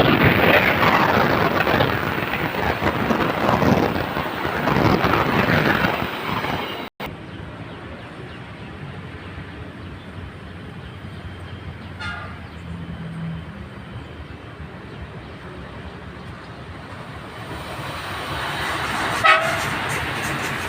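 Passenger train passing close, a loud rushing of wheels and carriages on the rails that cuts off abruptly about a third of the way in. Then a quieter train rumble, with a short horn toot about midway and a louder one near the end.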